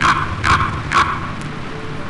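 Three short, harsh bird calls about half a second apart, over a faint steady low hum.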